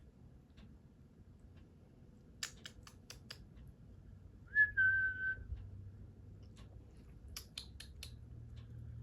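A single short whistled note, held steady for under a second, between two quick runs of sharp clicks.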